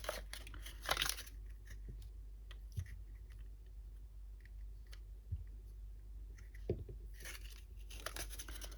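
Small workbench handling noises: a few light knocks and clicks, with brief scraping or rustling about a second in and again for over a second near the end.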